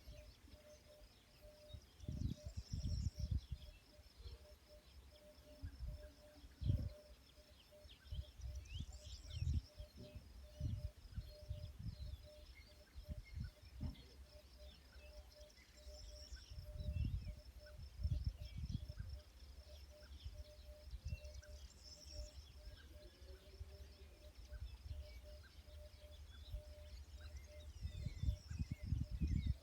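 Birds chirping, with a cluster of calls about every six seconds, over gusts of wind rumbling on the microphone.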